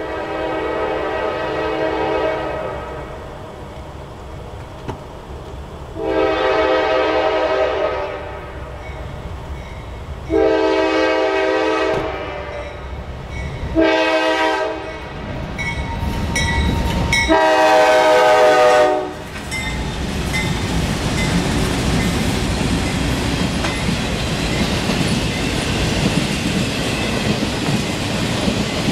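A locomotive air horn sounds the grade-crossing warning as a train approaches: four long blasts, then a short one, then a long one. The train then passes close by, its wheels rumbling and clattering steadily over the rails.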